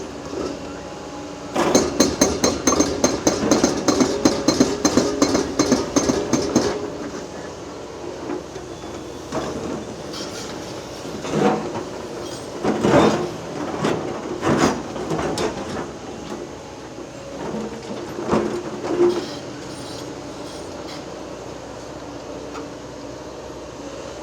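Excavator-mounted hydraulic breaker hammering concrete in a rapid run of sharp blows for about five seconds. Scattered single clanks and knocks of concrete and steel follow, over the steady running of the excavator's engine.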